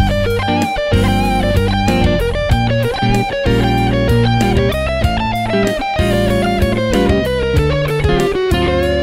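Electric guitar played through a Caline amp-simulator pedal, a lead melody with string bends and slides, over a band backing track with bass and a steady drum beat.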